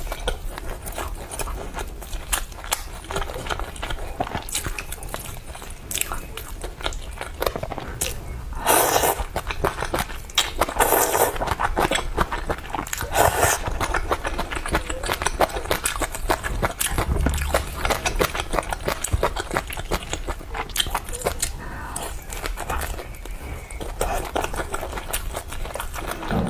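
Close-miked eating sounds: chewing and biting spicy malatang and a fried skewer, with many small wet mouth clicks and three louder bursts of crunching and slurping in the middle.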